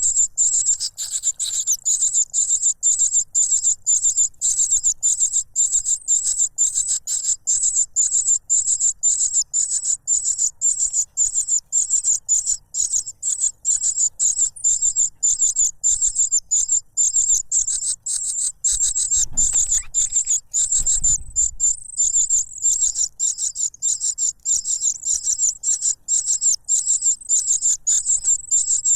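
Cuckoo chick begging for food with a loud, unbroken string of rapid, very high-pitched calls, about three or four a second. Two low bumps come about two-thirds of the way through.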